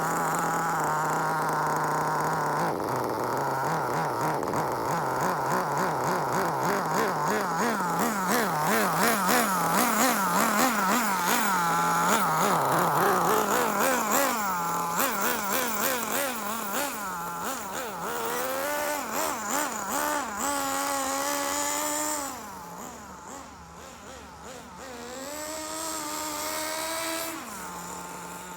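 Small two-stroke nitro (glow) engine of an RC car, an SH .18, idling steadily at first. It then revs up and falls back over and over as the car is accelerated to about half throttle and braked, with slower, quieter rises and falls near the end. This is running-in of a new engine.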